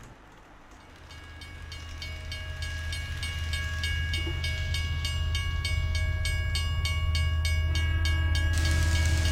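An N scale model train running on sectional track: a steady motor hum and whine with regular clicks at the rail joints, about three or four a second, growing louder as it approaches.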